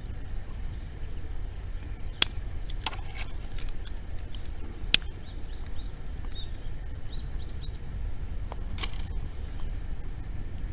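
Wood bonfire burning with sparse sharp crackles: three loud pops, about two, five and nine seconds in, and a few smaller ticks over a steady low rumble.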